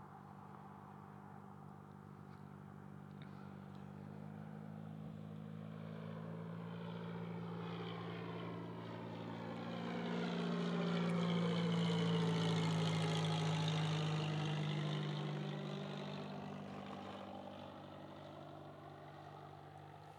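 Aircraft flying over, growing steadily louder to a peak about twelve seconds in, then fading away, with a steady low hum and a sweeping, phasing whoosh as it passes.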